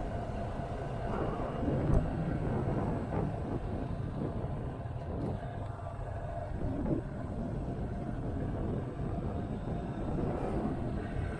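Motorcycle on the move: steady engine rumble mixed with wind rush, with a single brief thump about two seconds in.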